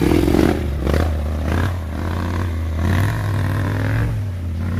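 Trail motorcycle engine running under load as it climbs a steep slope, with a steady low engine note and a few clattering knocks in the first two seconds.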